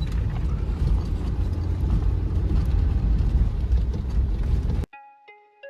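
Vehicle driving on the road: a steady, heavy low rumble of engine and road noise that cuts off abruptly near the end, replaced by soft plucked guitar music.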